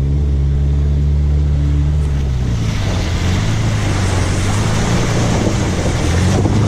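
SUV engine running steadily while driving through a river crossing. About two and a half seconds in, a loud rush and splash of water joins it.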